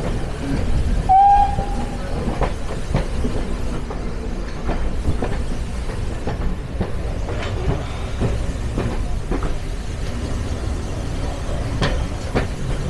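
Railway carriages running on track, a steady low rumble broken by irregular clicks of wheels passing over rail joints. There is a short, high squeal about a second in.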